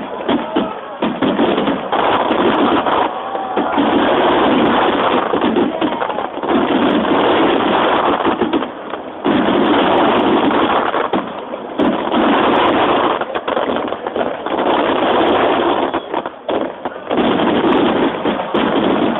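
Fireworks finale: a dense, continuous barrage of shells bursting, the bangs running together into a steady crackling rumble that eases briefly a few times. Recorded through a mobile phone's microphone.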